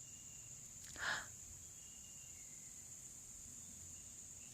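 Steady high-pitched chorus of crickets, with a few faint short chirps and one brief louder sound about a second in.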